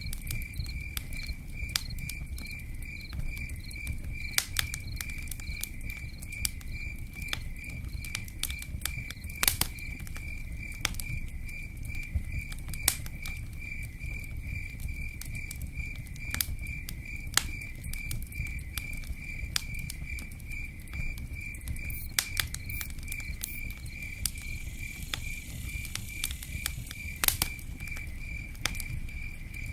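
Campfire crackling with irregular sharp pops over a low, even rumble, while an insect chirps in a steady, even pulse.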